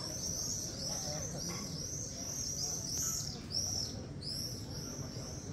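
Small birds chirping: a quick, continuous stream of short, arched high-pitched notes, several overlapping, with a slightly louder flurry about three and a half seconds in.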